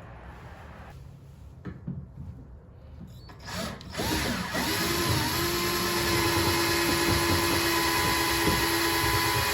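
A few light knocks of handling, then a power drill starts about four seconds in, its whine rising as it spins up, and runs steadily, drilling a mounting-bolt hole in the kayak for the outboard motor mount.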